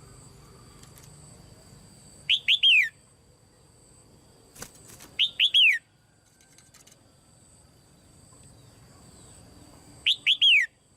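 Caged female red-whiskered bulbul calling: three loud phrases, each of three or four quick notes sliding down in pitch.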